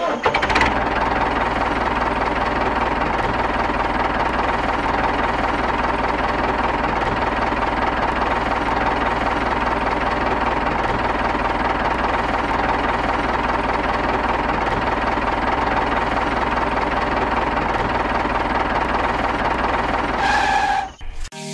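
The model tractor's drive running steadily with a fast, even knocking, like a small diesel tractor engine, as it drives along. It cuts off abruptly near the end.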